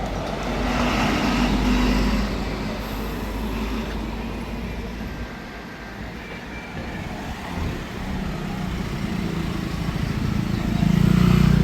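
Street traffic: vehicles passing close by over a steady traffic hum. A louder pass comes about a second or two in, and a low engine drone grows loudest near the end as another vehicle goes by.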